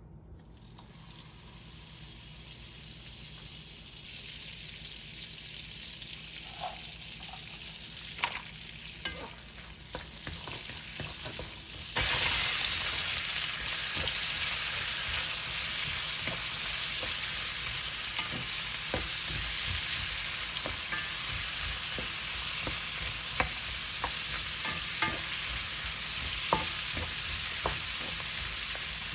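Frying in a pan: a faint sizzle that builds slowly, then about twelve seconds in it jumps suddenly to a loud, steady sizzle, with the clicks and scrapes of a spoon stirring.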